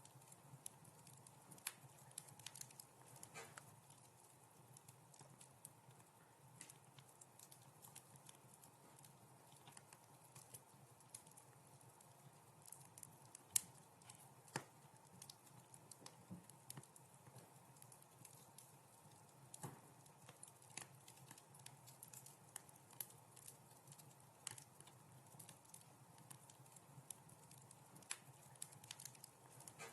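Wood fire crackling softly in a fireplace: irregular small pops and snaps over a faint steady hum, with one sharper, louder pop about halfway through.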